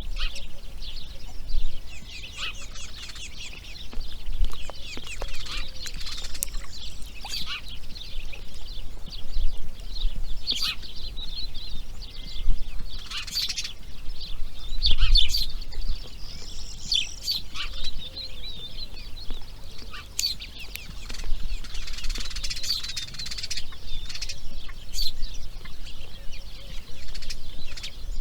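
Grey heron chicks in the nest giving fast, high-pitched chattering begging calls without a break, with a few sharp knocks in the middle.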